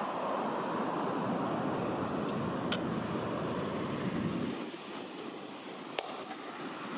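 Jet aircraft noise, a steady rushing roar that eases off about four and a half seconds in, with two brief sharp clicks.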